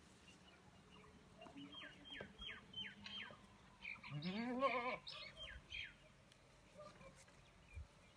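A goat bleats once, a single wavering call about halfway through, amid a run of short, high, falling chirps repeated about twice a second before and after it.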